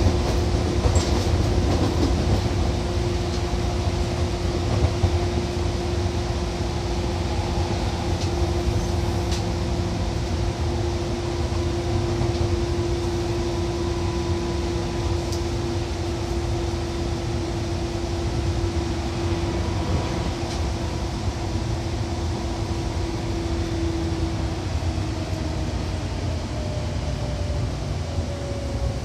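Seibu 2000 series electric train heard from inside while running: a steady low rumble of wheels on rail, with a few sharp clicks. A steady whine fades out about four-fifths of the way through, and a higher tone slowly falls near the end.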